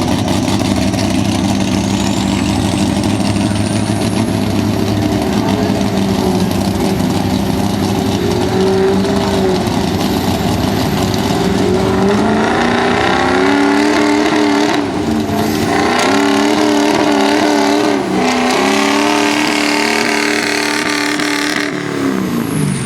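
Diesel 4x4 truck engine running hard under a long, sustained load, its pitch climbing about halfway through and holding, then falling off sharply near the end as the throttle is released. A high whistle climbs over the first few seconds.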